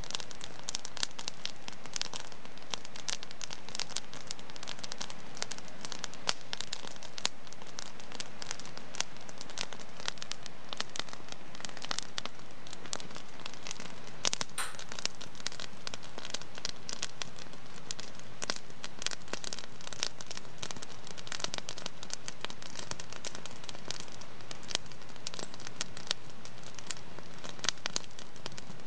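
Wood fire crackling in a fireplace: a dense, steady stream of small crackles and pops, with one sharper pop about halfway through.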